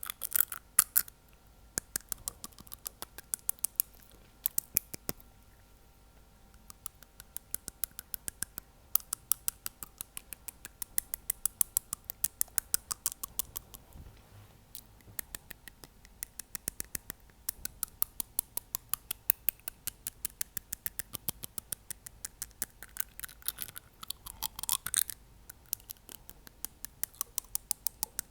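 ASMR teeth tapping: a single fingernail tapping on teeth in quick runs of sharp clicks, several a second, with short pauses between runs. A brief sweep of sound comes through about 24 seconds in.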